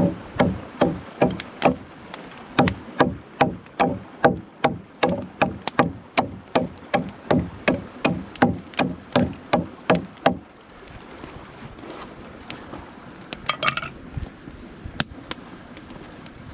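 Quick, even chopping strikes on wood, about three a second, stopping about ten seconds in. The steady rush of a mountain stream continues underneath.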